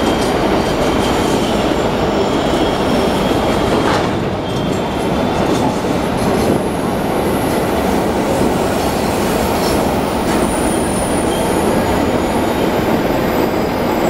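Empty iron-ore gondola wagons rolling past on steel rails: a steady, loud rumble and rattle of wheels and running gear. In the second half a thin, faint high wheel squeal comes and goes.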